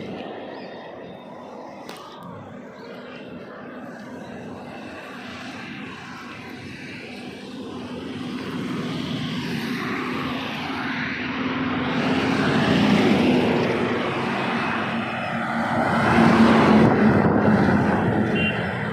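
Trucks on a road: a steady engine and tyre drone that grows louder twice as vehicles pass close, then falls back.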